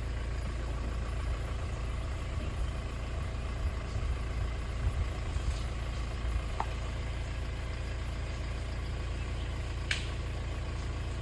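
Vehicle engine idling with a steady low rumble. A short high sound cuts in briefly near the end.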